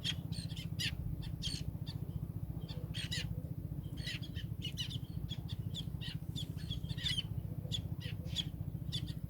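Birds chirping: many short, quick calls in an irregular stream, over a steady low hum.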